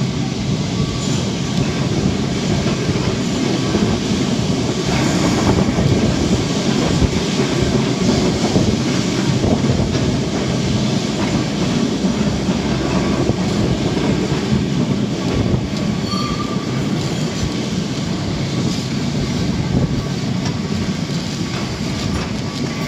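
Lisbon Tram 28 streetcar running along its rails: a steady rumble of wheels on track with rail clatter, and a brief high wheel squeal about sixteen seconds in.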